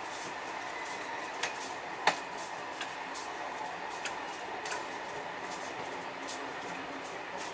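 A freight train of tank wagons rolling slowly on the rails: a steady rolling noise with a handful of sharp metallic clicks and clinks at irregular intervals, the loudest about two seconds in.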